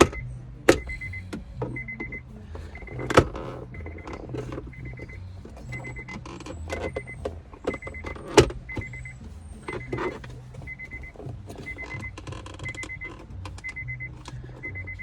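A car's warning chime beeping steadily at about two beeps a second, over a low hum. Plastic trim and hand tools click and knock throughout, with three sharp knocks louder than the rest.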